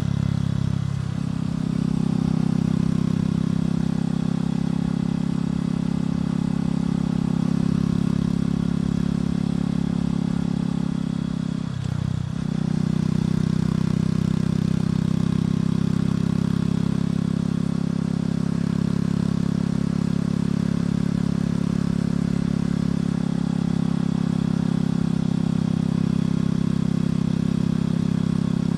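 Motorcycle engine running steadily while riding. The engine note drops briefly and picks up again twice, once about a second in and once a little before the middle.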